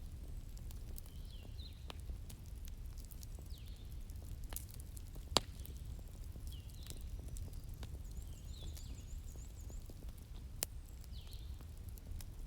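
Wood fire crackling, with scattered sharp pops (the loudest about five seconds in) over a steady low rumble. A bird chirps in short calls every second or two, with a brief high trill about eight seconds in.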